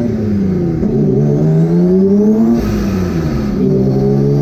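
Twin-engine, twin-turbo Mazda MX3 accelerating hard. The engine pitch climbs and drops at each upshift, twice, with a burst of hiss for about a second after the second shift.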